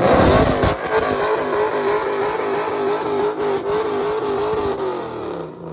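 Car engine revved hard and held at high rpm, a steady note with a slight fast waver, starting suddenly and cutting off after about five and a half seconds.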